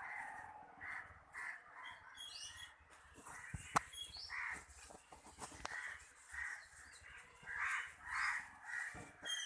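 Birds calling: a string of short, repeated calls, with a sharp click a little under four seconds in.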